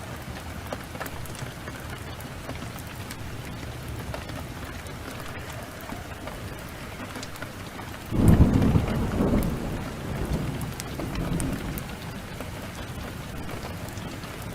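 Steady heavy rain, with thunder breaking suddenly about eight seconds in and rumbling away in waves over the next few seconds.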